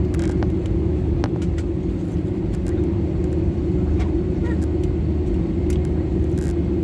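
Steady cabin drone inside an Airbus A320: engine and airflow noise as a continuous low hum, with a few faint clicks and rattles.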